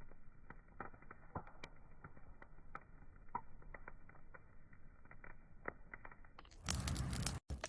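Wood fire crackling, with scattered sharp pops and snaps over a low bed of noise. Near the end a sudden loud burst of hissing noise lasts about a second, breaking off briefly in the middle.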